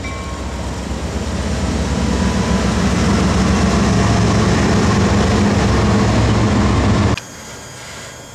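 CSX freight train's diesel locomotives passing close by: a loud engine rumble with a steady low drone that builds over the first few seconds. About seven seconds in it cuts off abruptly to the much quieter rolling of the train's autorack cars.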